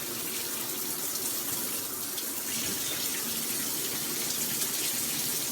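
Water spraying steadily from a brass high-flow shower head, an even hiss with a slight dip about two seconds in.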